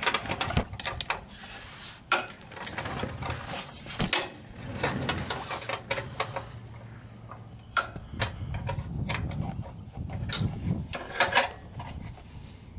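Irregular clicks, taps and rubbing from parts and tools being handled while the pressure washer is taken apart, with some sharper knocks scattered through.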